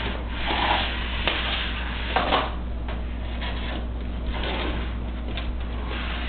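Irregular scraping, rolling and knocking of a switched-off upright vacuum cleaner being pushed and jostled across the floor, with a few sharper knocks about two seconds in, over a steady low hum.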